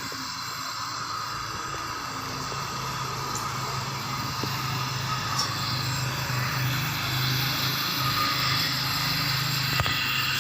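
Aluminium welding on a cracked water-pump engine housing: a steady arc hiss with a low buzz running under it.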